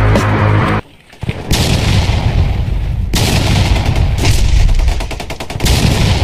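Music stops about a second in, and after a brief gap rapid machine-gun-style gunfire sounds rattle on, a dense stream of quick shots.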